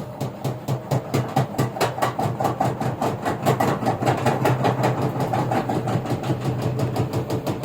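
LG washing machine running with a rapid, even knocking, about five knocks a second, over a steady motor hum.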